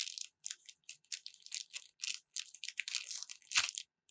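Packaging being handled, rustling and crinkling in short irregular bursts, with a soft knock about three and a half seconds in.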